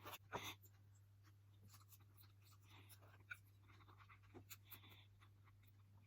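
Near silence: a steady low hum, with faint clicks and soft scraping from quiet eating with utensils.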